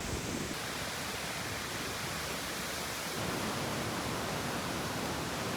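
Strong wind making a steady, even rushing noise, without gusts.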